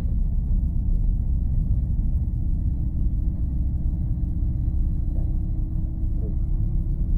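Light aircraft in flight heard from inside the cockpit: a steady low rumble of engine and airflow with a faint steady hum, the engine throttled back for a simulated engine failure.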